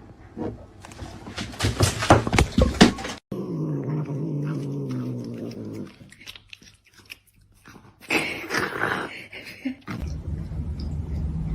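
A cat making vocal sounds, with a run of sharp clatter in the first three seconds.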